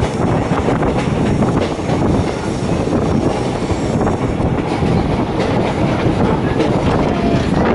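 DEMU (diesel-electric multiple unit) train running on the rails: a dense steady rumble with the wheels clicking over rail joints at irregular intervals.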